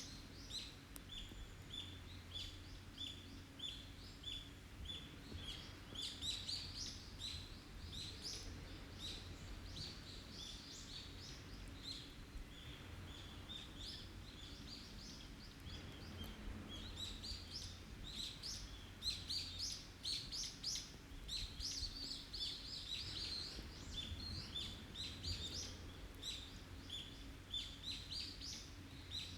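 Several forest birds calling and singing, with overlapping chirps. A run of short, evenly repeated high notes fills the first few seconds, and the calls grow busier in the second half.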